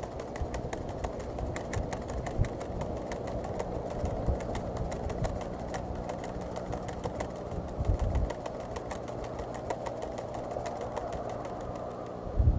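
A dry corn husk flapping and rattling in the wind in an eagle nest, making a rapid crackling run of dry clicks that thins out near the end. Under it is a low wind rumble on the nest-cam microphone, with a couple of heavier gusts.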